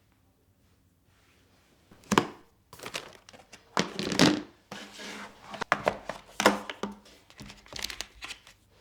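Crinkly material rustling and crumpling as it is handled, in a string of sharp bursts starting about two seconds in.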